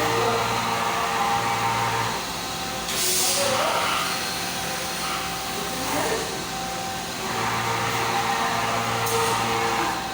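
A 5-axis CNC machine running. Its motors give steady tones that switch on and off every couple of seconds as the axes move, and there is a short hiss about three seconds in.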